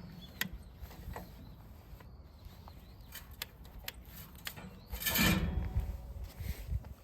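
Metal fire pit being handled: scattered light knocks and clicks, with a louder rubbing, scraping noise about five seconds in.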